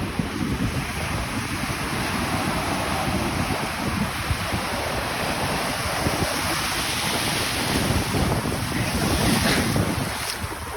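Wind blowing across the microphone, a steady rushing noise with an uneven low rumble.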